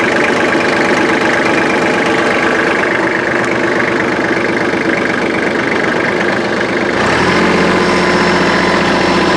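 Kubota compact tractor's diesel engine idling; about seven seconds in the note changes and it runs a little louder, with a new steady hum.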